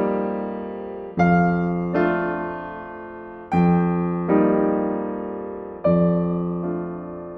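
Slow, gentle solo piano music: chords struck in pairs about every second and a half and left to ring out and fade.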